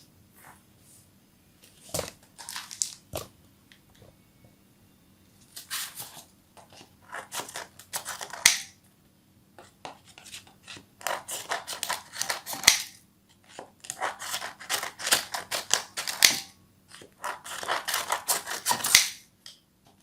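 Dry rice paper sheets being cut with scissors: crisp crackling snips in runs of a few seconds, with short pauses between the runs.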